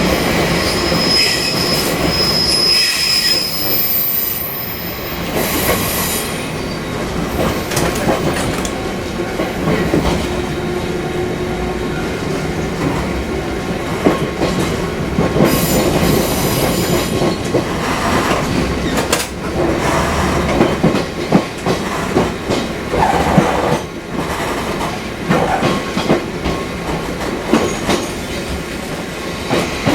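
Fukui Railway 200-series electric train running along the line: steady rolling and motor noise with repeated knocks from the rail joints. About a second in, a high wheel squeal lasts a couple of seconds.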